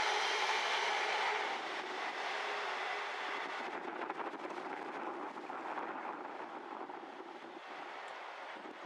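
Intermodal container freight train rolling past, its wagon wheels rumbling on the rails. The sound fades steadily as the train draws away, and the high end thins out about halfway through.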